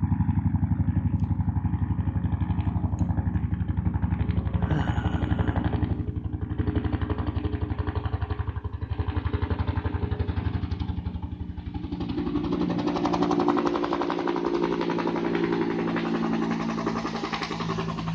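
Helicopter flying overhead, its rotor beating in a fast steady pulse over the engine's drone. About twelve seconds in the deepest part of the sound drops away and the higher tones grow louder as it moves past.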